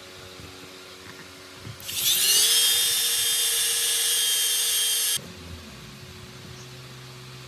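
An electric power tool's motor starting with a quick rising whine, running at a steady high-pitched speed for about three seconds, then switched off abruptly.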